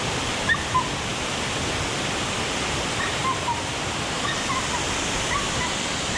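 Waterfall pouring down, a steady, even rush of falling water.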